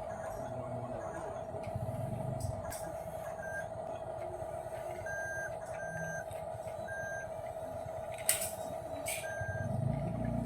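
Remote-control toy truck running, a steady electric whine under short electronic beeps that come now and then, with a sharp click about eight seconds in and a low rumble near the end.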